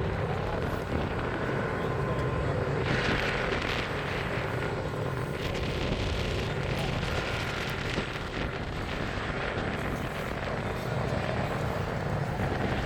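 Jet airliner engines heard across an airfield: a steady low rumble, with a rise in hiss a few seconds in.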